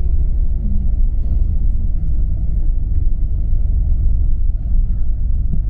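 Steady low rumble of a tour coach's engine and tyres on the road, heard from inside the moving bus's cabin.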